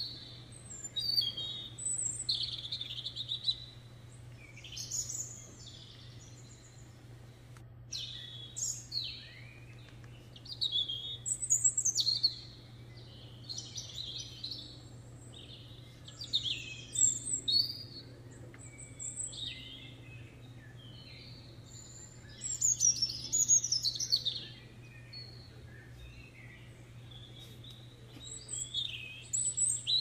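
Birds chirping and singing, several calls overlapping in clusters of quick, sweeping notes every second or two, over a steady low hum.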